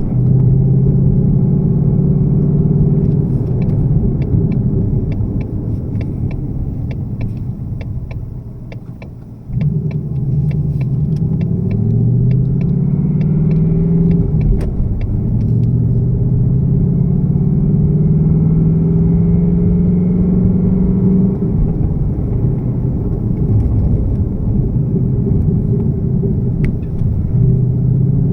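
2018 Mustang GT's 5.0 Coyote V8 idling after a cold start, with a rapid ticking rattle over the engine note for roughly the first half; the owner takes the rattle for piston slap. The sound fades for a few seconds and comes back suddenly about nine and a half seconds in, then the engine note rises slowly in pitch a couple of times.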